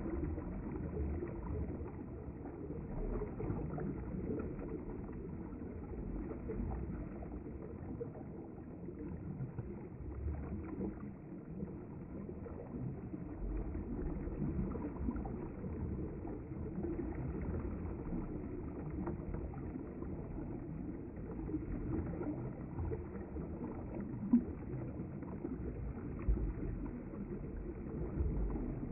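River water flowing past the bank: a steady low rushing and lapping with no pauses, with a single short knock about 24 seconds in.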